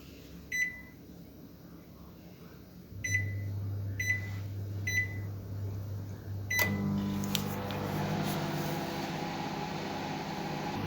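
Microwave oven keypad beeping five times as the cooking time is set: short, high, single-pitched beeps. With the last beep, about two-thirds of the way in, the oven starts and runs with a steady hum.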